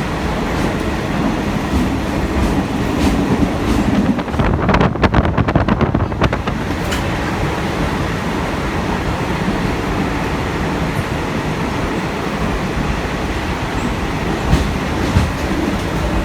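Open-air train carriage running along the track, a steady rumble and rattle of wheels and coach. About four and a half seconds in comes a quick run of sharp clatters that lasts about two seconds.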